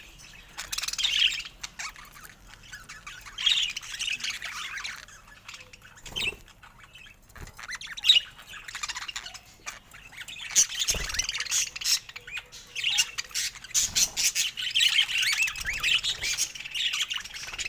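Budgerigars chattering and warbling in quick, busy bouts, with a few short knocks in between. The chatter thickens in the second half.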